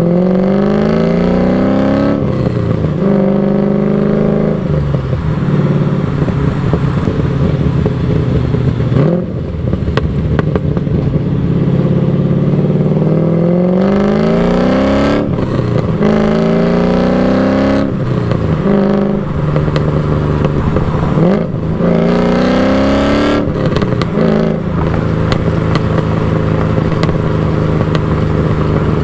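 LS1 V8 engine and exhaust under way, the revs climbing again and again and dropping sharply at each upshift of the T56 six-speed manual, with stretches of steady cruising between pulls.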